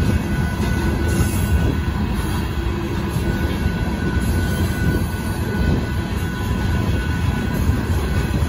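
Covered hopper cars of a Union Pacific sand train rolling past, a steady heavy rumble from wheels and cars on the rails, with a faint steady high whine over it.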